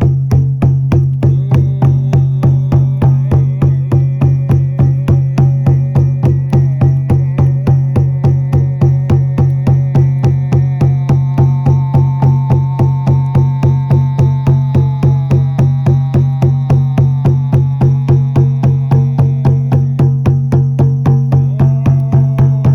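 Shaman's frame drum (buben) beaten in a steady, even rhythm, each stroke a deep ringing boom, with a held melodic tone drifting above it through the middle.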